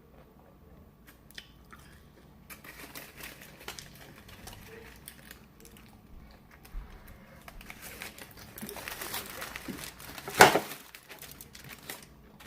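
Close-miked chewing and crunching of a Five Guys burger, with scattered crackles and crinkling, as of the paper wrapper. A single much louder sharp crackle about ten seconds in.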